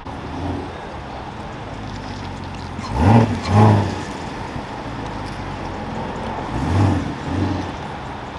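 A car engine idling, blipped twice in quick succession about three seconds in, the loudest sound, and revved twice more, more softly, about seven seconds in.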